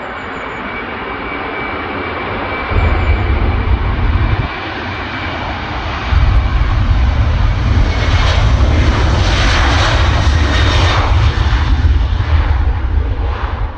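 Jet roar from a Ryanair Boeing 737-800's CFM56 turbofans at takeoff power. It builds steadily and is loudest for several seconds as the aircraft passes. A steady high fan whine fades out over the first few seconds.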